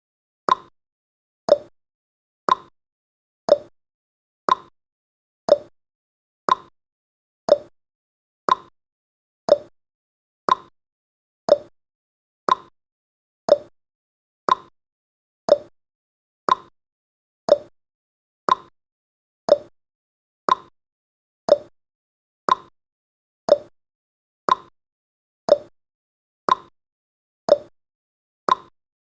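Countdown timer's tick sound effect: a short blip that drops quickly in pitch, repeating once every second.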